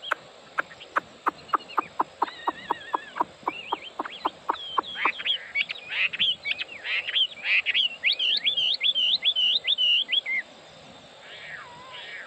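Chinese hwamei (melodious laughingthrush) singing: a run of sharp repeated notes, about four a second, that gives way to quick, varied whistled phrases rising and falling in pitch, the song stopping about ten seconds in.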